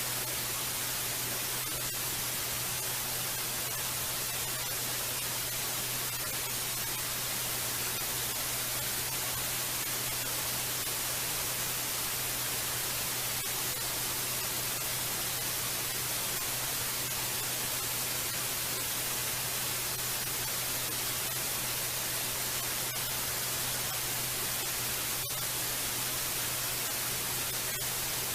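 Steady static-like hiss with a low hum underneath, unchanging throughout, with no distinct sounds standing out from it.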